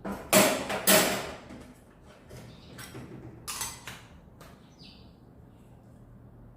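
Kitchen utensils being handled while spooning baking powder into the batter bowl. There are two loud scraping knocks about half a second apart near the start, then a few lighter clicks and a short clink.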